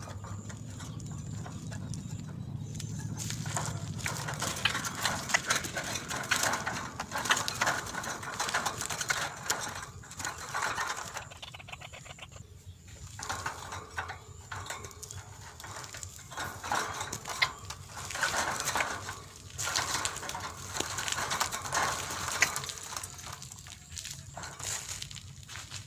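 White-breasted waterhen (ruak-ruak) calling: rapid, harsh, clicky phrases in several bouts with short pauses between them.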